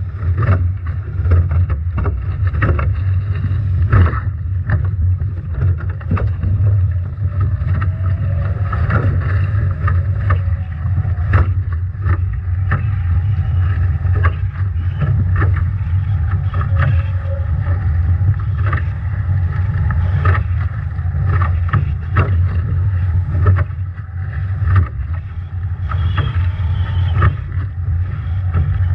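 Nacra 17 foiling catamaran under way in strong wind and heavy waves: a steady low wind rumble on the microphone, with frequent sharp knocks and slaps of water against the hull.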